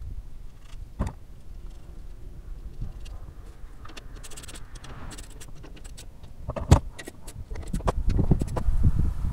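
Metal hand tools and parts clinking and knocking while the wiper linkage assembly is being fitted. There is a quick run of clicks about halfway, a sharp knock a little later, then a string of low thumps and rattles near the end.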